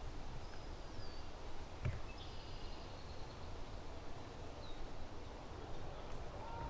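Woodland ambience: birds giving short high chirps over a low steady rumble, with a single sharp knock about two seconds in.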